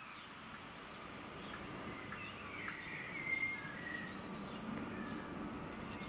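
A small bird chirping a few short, gliding notes through the middle, over a steady outdoor background of low rumbling noise.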